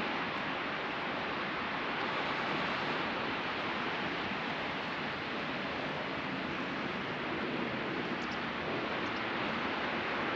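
Steady wash of ocean surf breaking on a beach, an even hiss with no distinct single waves standing out.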